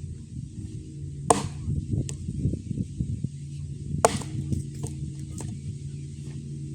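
Swiss Tech hatchet-style axe chopping firewood: two sharp strikes into the wood, about 1.3 s and 4 s in, with a few lighter knocks between.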